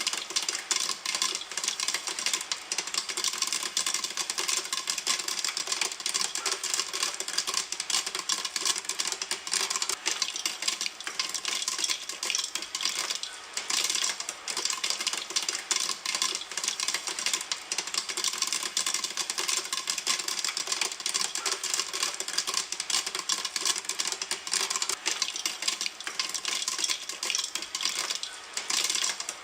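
Popcorn kernels popping in a pan: a dense, continuous crackle of many quick pops, with no pause.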